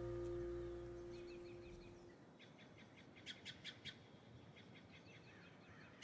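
The string band's final chord fades out over the first two seconds. Then a bird calls faintly in quick runs of short, sharp chirps, four in a row about three seconds in, with softer twittering around them.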